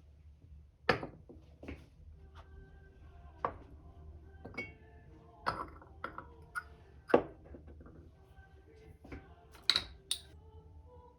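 Light clinks and taps of tableware or teaware, about a dozen at irregular intervals, some leaving a brief ringing tone; the loudest come about a second in and about seven seconds in.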